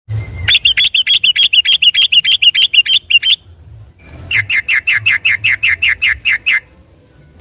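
Yellow-vented bulbul singing a fast rolling series of repeated notes, about six a second. After a short pause a second, lower-pitched series follows.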